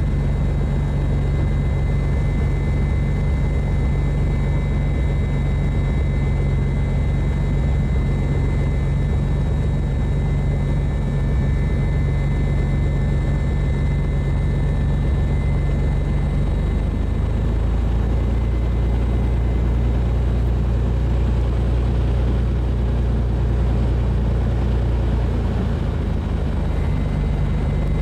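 Bellanca Super Viking's piston engine and propeller running steadily, heard inside the cockpit. The engine note drops a little past halfway through and rises again near the end.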